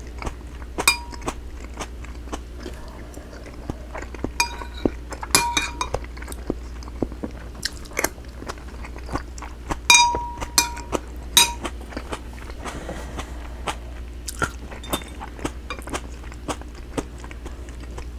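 Close-up eating sounds: a person chewing and biting pan-fried cod and tofu, with frequent small clicks and utensils clinking against a dish several times, the loudest clink about ten seconds in.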